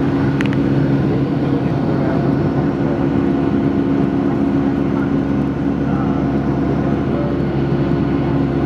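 Steady drone of an airliner's jet engines and airflow heard inside the passenger cabin, an even hum that holds without rising or falling.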